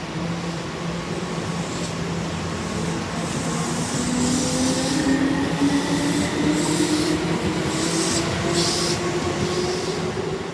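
Keihan 2200 series electric train pulling away, its motor whine rising steadily in pitch as it accelerates. Short high-pitched wheel-and-rail noises come in bursts through the middle as the cars pass over the track.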